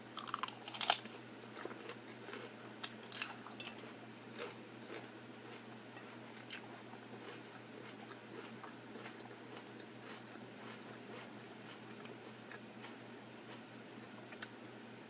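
A person biting into and chewing food close to the microphone, with crunchy bites in the first second and again about three seconds in, then quieter chewing.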